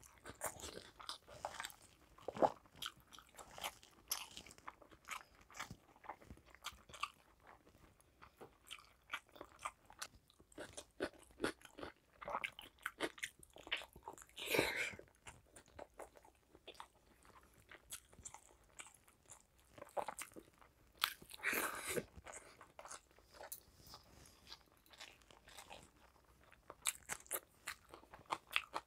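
Close-miked chewing and biting of rice and curry eaten by hand: a continuous run of short mouth clicks and crunches, with a few louder bites about halfway through and again a little later.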